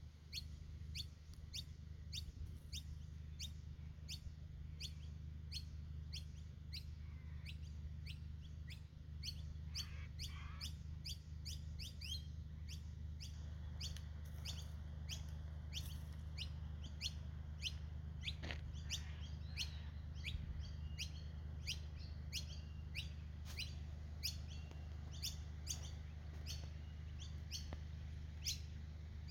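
A bird chirping repeatedly, short high notes about twice a second, over a steady low hum.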